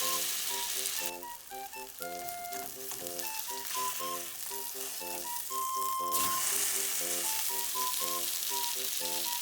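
Food sizzling as it fries in a hot pan, a steady hiss that drops back briefly about a second in and swells louder from about six seconds. Light background music plays under it.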